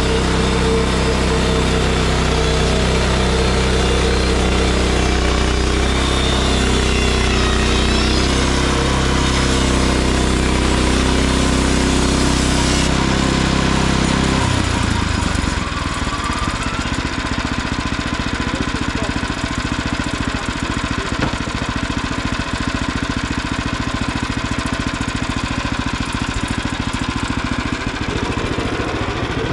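Small gasoline engine of a Frontier OS23 bandsaw sawmill running steadily at high speed, then dropping to a choppy idle about halfway through.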